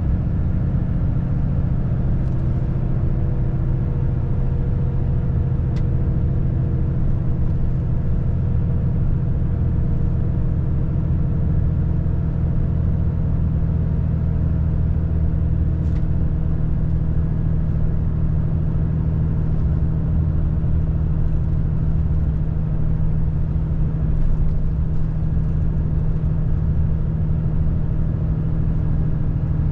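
Volvo FH540 truck's 13-litre straight-six diesel engine running steadily under way, an even low drone with no change in speed. Two faint clicks come through, about six seconds in and about sixteen seconds in.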